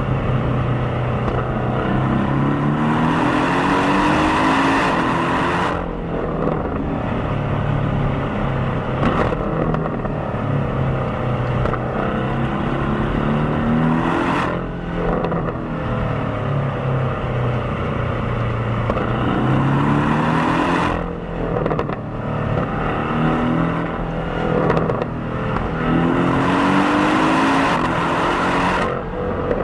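Stock exhaust of a 2018 Porsche 718 Cayman's turbocharged 300 hp flat-four, picked up at the rear bumper and blended with the sound inside the car. The car pulls hard several times: the engine note climbs steadily, then drops sharply at each shift or lift-off, with a hiss at the top of some of the pulls.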